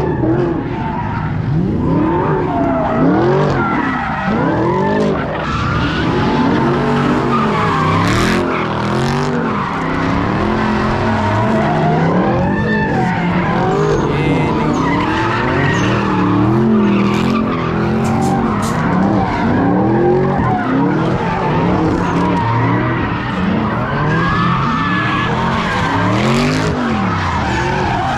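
Car engine revving up and down again and again while its tires skid and squeal, as a car spins its wheels at a street takeover.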